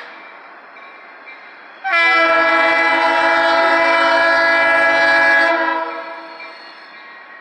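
Diesel freight locomotive's multi-chime air horn: the last of one blast dies away at the start, then a second long blast of about three and a half seconds begins a couple of seconds in and fades out, the kind of horn pattern sounded for a road crossing.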